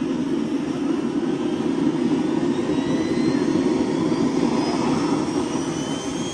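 Large radio-controlled Mi-24 scale model helicopter running: a steady, loud rotor and motor noise with a high whine that rises slowly in pitch.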